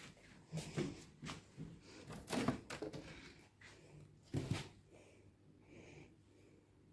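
A series of soft knocks and clicks from things being handled, the loudest a thump about four and a half seconds in.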